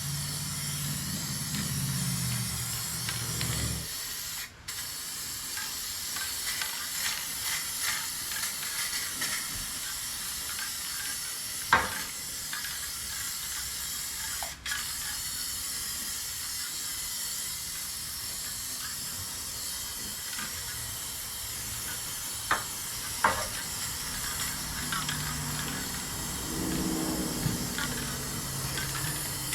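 Red paint spraying in a steady hiss, cutting out briefly twice, with a few sharp clicks.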